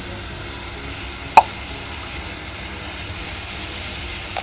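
Shrimp, garlic and tomato sizzling in hot oil in a pot: a steady frying hiss. One sharp tap about a second and a half in.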